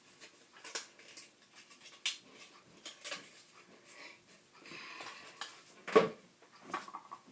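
Paper craft pieces being handled and fitted together on a table: irregular rustles, taps and clicks, with one sharp knock about six seconds in.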